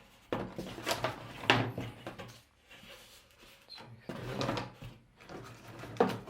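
Firework rockets being handled and set down: a series of about five separate knocks and rustles from their sticks and packaging.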